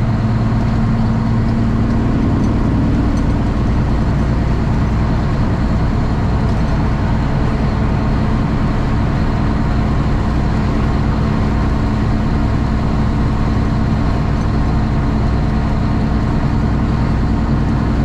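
Straight-piped Cummins ISX diesel engine of a Kenworth T800 truck running at a steady, unchanging pitch.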